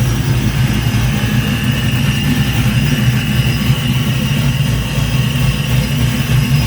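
Engine running steadily at idle during its first start-up, with a steady high whine above the engine note.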